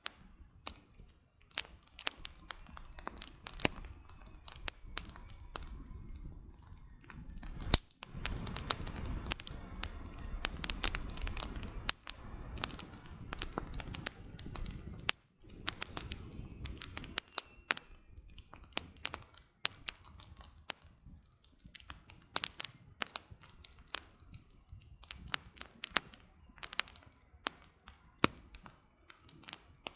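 Wood campfire crackling, with irregular sharp pops and snaps of burning firewood. Between about eight and fifteen seconds in, a steadier low rushing noise of the fire swells louder beneath the pops.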